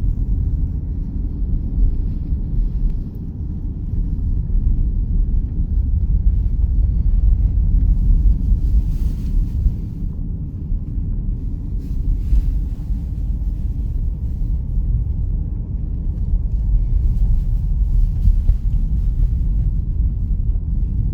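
Steady road and engine rumble heard from inside a moving car's cabin, with a few brief faint swells of higher hiss.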